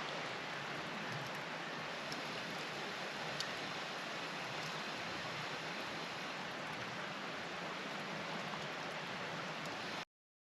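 Steady rush of a flowing stream, with a few faint clicks, cutting off abruptly near the end.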